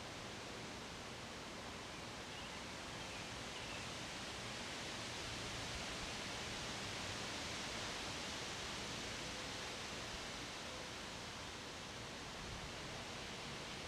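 Wind rustling through leaves as a steady hiss that swells for a few seconds in the middle, then eases.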